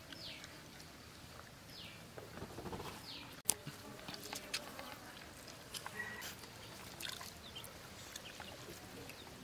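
A bird repeating a short falling call several times, over faint outdoor background, with scattered small clicks and taps and one sharper click about three and a half seconds in.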